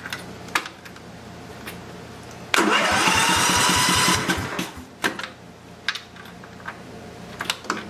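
Simplicity riding mower's electric starter cranking the engine for about a second and a half, its whine rising as it spins up over steady chugging pulses, then stopping without the engine catching. A few sharp clicks come before and after.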